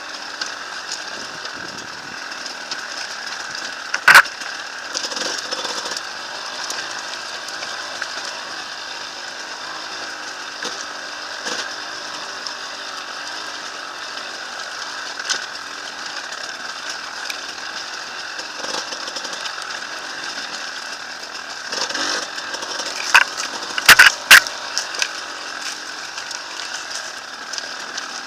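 Enduro dirt bike engine running steadily off-road, with a sharp knock about four seconds in and a quick cluster of loud knocks near the end.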